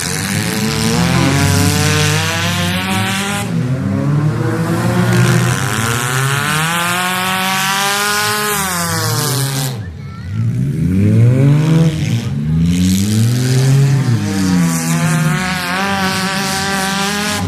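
Several car engines racing around a track, revving hard and easing off so their pitch repeatedly climbs and falls, with a short lull just before the middle.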